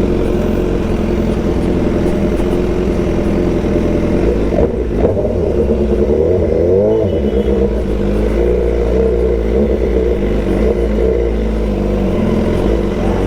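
BMW S1000 XR's inline-four engine running through a full Akrapovic exhaust at low, fairly steady revs, with a brief change of throttle about five seconds in.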